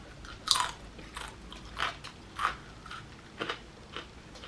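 A dog chewing and crunching food, a sharp crunch about every half second.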